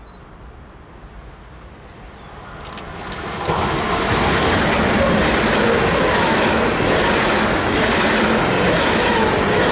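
Deutsche Bahn ICE high-speed electric train approaching and running through the station at speed. A rush that swells over about three seconds, then a loud, steady noise of wheels on rail and rushing air as the coaches pass.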